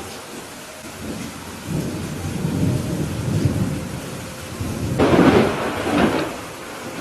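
Steady rain with thunder: a low rumble builds about a second and a half in, then a louder, sharper peal of thunder breaks around five seconds in and fades away.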